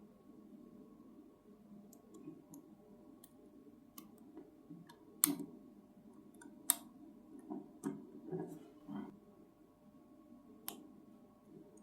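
Scattered small clicks and light taps from close-up handwork with small tools and parts, a few sharper clicks standing out, over a faint steady hum.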